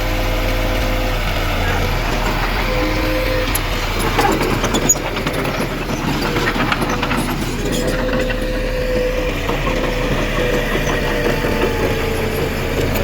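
Heavy diesel machinery running steadily, with a few clanks and knocks about four to seven seconds in.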